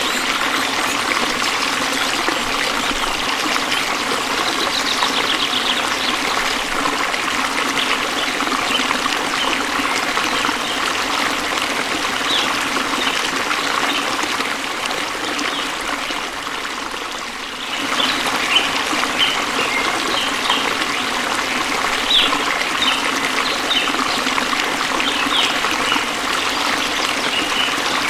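Waterfall water running and splashing in a steady rush. The rush dips somewhat a little past halfway, then comes back abruptly.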